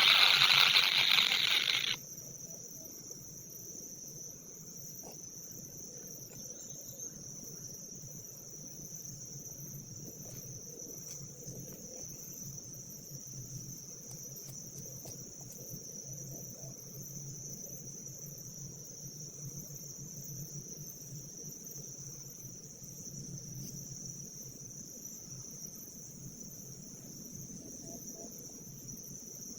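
A loud hiss for about the first two seconds that cuts off abruptly, leaving a steady high-pitched insect trill, cricket-like, that runs on unbroken.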